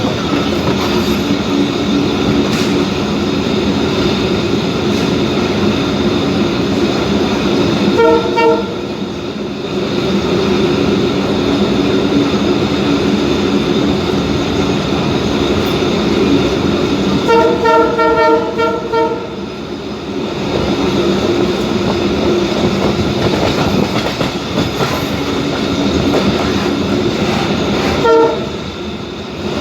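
Passenger train running, heard from aboard, with a steady rumble and hum. Its horn sounds three times: a short blast about a quarter of the way in, a longer, pulsing blast past the middle, and another short blast near the end.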